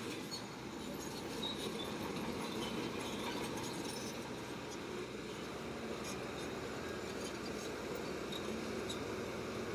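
Shantui crawler bulldozer working: its engine runs steadily, with scattered small high squeaks, typical of its tracks.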